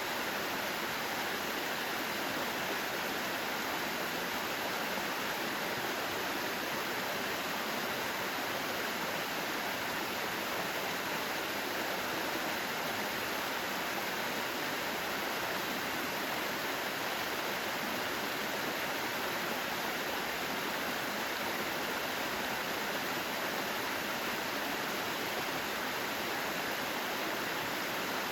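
Mountain stream rushing steadily over rocks: an even, unbroken water noise with no change.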